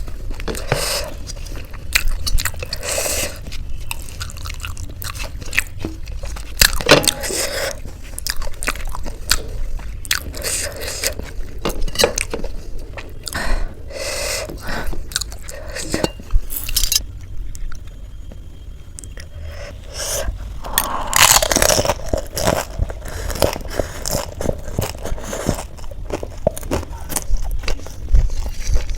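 Close-miked crunching and chewing of crisp fried Indian snacks, with repeated crackly bites. About two-thirds through it goes briefly quiet, then a loud crunchy bite and more chewing follow.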